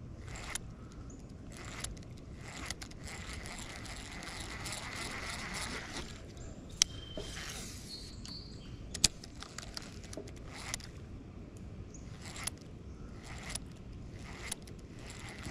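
Fishing reel being cranked to retrieve a topwater frog lure, giving a run of scraping, clicking mechanical sounds with scattered sharp ticks and knocks, over a steady high hiss.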